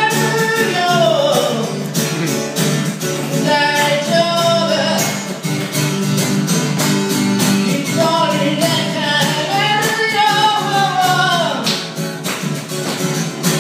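A solo singer singing while strumming an acoustic guitar, the voice coming in phrases over a steady strummed accompaniment.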